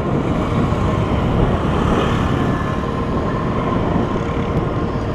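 Motor scooter riding along a highway at speed: a steady rush of engine, road and wind noise, with a faint steady whine.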